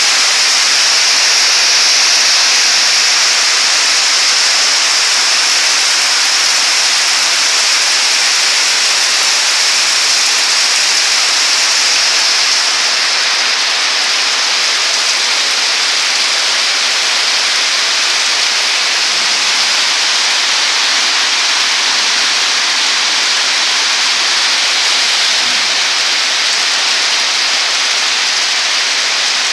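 Heavy rain falling in a steady hiss, easing slightly about halfway through.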